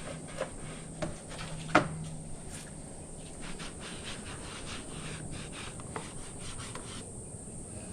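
A damp towel rubbing plastic engine-bay trim: a run of short, quick rubbing strokes, with one sharp knock a little under two seconds in. The strokes stop about seven seconds in.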